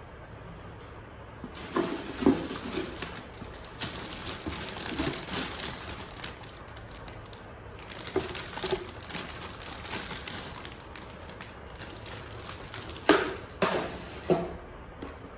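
Objects being handled, with rustling and several sharp knocks and clinks. The loudest knocks come in a cluster near the end.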